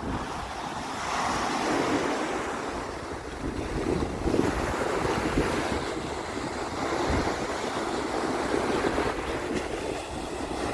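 Sea waves breaking and washing up a sandy beach: a continuous surf wash that swells about a second in and again around four seconds.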